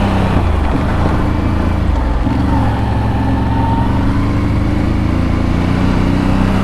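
ATV engine running under way on a trail, its note shifting about two seconds in and then slowly climbing.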